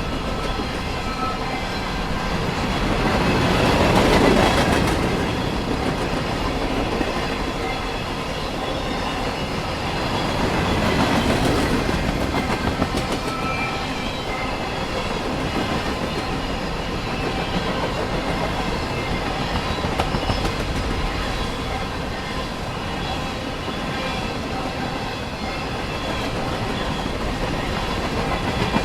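Freight train of grain cars rolling past on the rails: a steady rumble and clatter of steel wheels on track, swelling louder about four seconds in and again about eleven seconds in.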